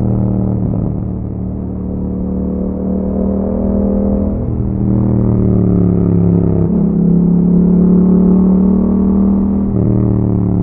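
Yamaha MT-07's 689 cc parallel-twin running through an Akrapovic aftermarket exhaust while riding, its note changing abruptly a few times, about a second in, around five and seven seconds, and near the end.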